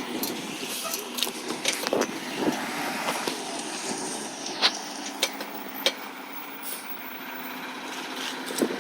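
Recycling truck running steadily, with several sharp knocks and clanks.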